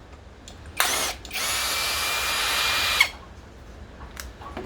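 Power drill-driver backing out a screw: a short burst of the motor just under a second in, then a steady run of about a second and a half with a high whine, stopping with a click about three seconds in.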